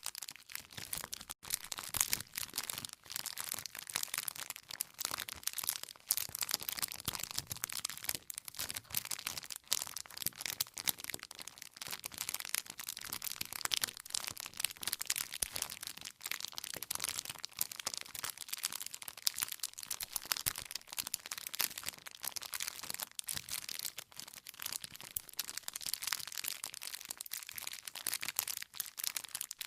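Wood campfire burning, with dense, continuous crackling and snapping of the burning logs.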